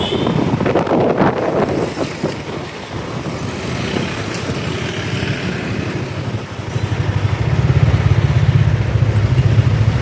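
Motorcycle taxi riding through city traffic, its engine running with wind noise on the microphone; about six and a half seconds in, the low engine sound grows louder and rougher.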